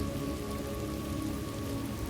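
Steady rain falling in a thunderstorm ambience, with a low rumble of thunder underneath. Faint steady held tones of soft background music sit beneath the rain.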